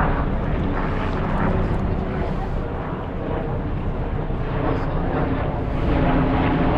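Steady outdoor background noise: a low rumble with indistinct voices mixed in.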